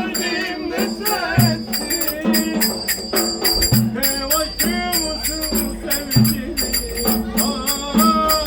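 Black Sea Turkish folk dance music (oyun havası) with a wavering, ornamented melody over quick jingling hand-percussion strokes and a low drum thump every couple of seconds.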